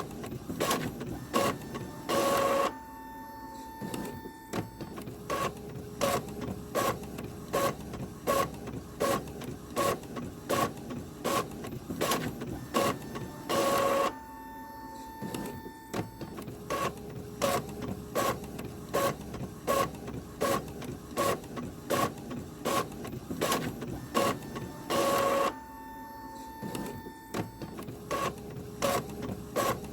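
Printer running and feeding paper: a string of sharp mechanical clicks and short whirs, about two a second. A longer, louder mechanical burst comes back about every 11 to 12 seconds, three times.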